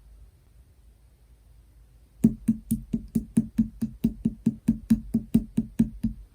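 Slime being pressed rapidly by fingers, making a fast, even run of sharp clicking pops, about five a second, that starts about two seconds in.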